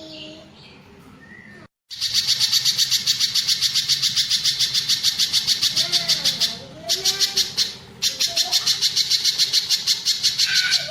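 Pijantung gunung (a spiderhunter) singing a long run of rapid, high, repeated chirps, about five a second, with two brief breaks. The run starts abruptly about two seconds in after a short silent gap.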